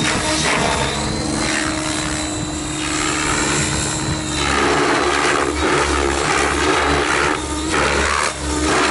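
T-Rex 700 radio-controlled helicopter in flight: rotor whir and motor whine, swelling and fading.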